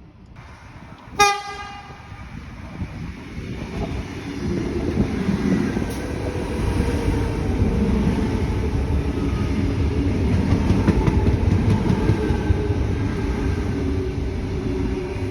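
Sydney train horn giving one short toot about a second in, then the train running past with a rumble of wheels on rails that builds and stays loud.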